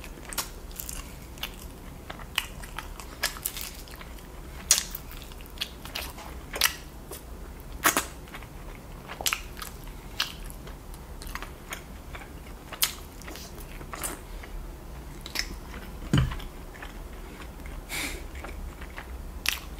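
Close-miked eating of sauce-covered rotisserie chicken: biting, chewing and crunching of the skin and meat, heard as irregular sharp clicks and crackles every second or so. One duller, deeper thump comes about sixteen seconds in.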